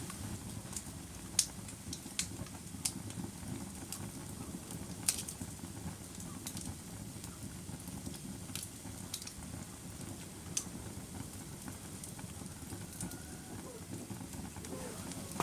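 Wood fire burning: a steady low rumble of flames with scattered sharp crackles and pops, the loudest about a second and a half in and again about five seconds in.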